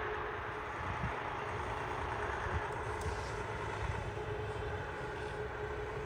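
Railway maintenance-of-way track machines running, a steady rumble with a faint steady hum through it.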